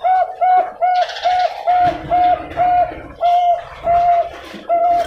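Zebra dove (perkutut, Bangkok contest strain) cooing a fast run of about ten clear, same-pitched notes, two to three a second, slowing and spacing out near the end.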